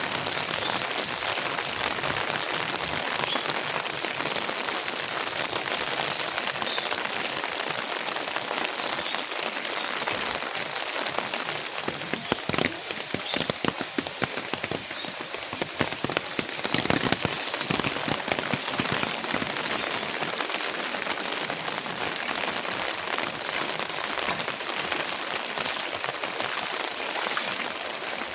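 Heavy rain falling steadily, a dense hiss of drops on hard surfaces, with a stretch of louder, sharper drop impacts near the middle.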